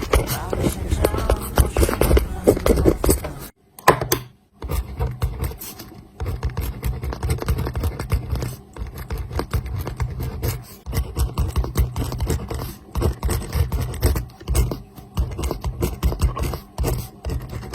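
Writing by hand on paper: a rapid run of short scratching strokes, broken by a pause of about a second near the start.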